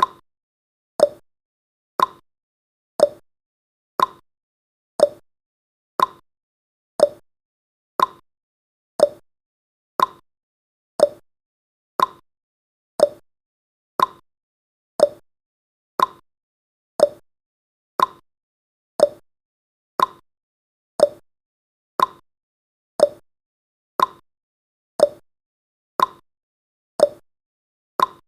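Countdown timer's clock-style ticking sound effect: a short, sharp tick about once a second, alternating between a higher and a lower tick like a tick-tock.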